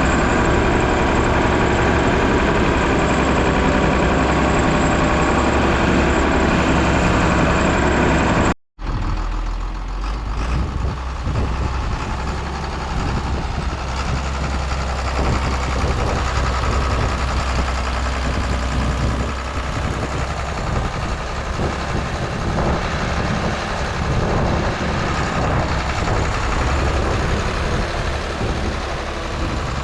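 A farm tractor's engine runs steadily under load as it drives back and forth packing fill dirt. The sound cuts out abruptly about nine seconds in. It then resumes with a lower, rougher engine note.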